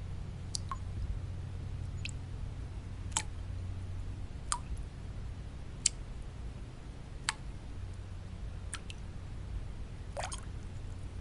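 Water drops falling one at a time into water, each a short plink that drops in pitch, about one every second and a half, over steady low white noise.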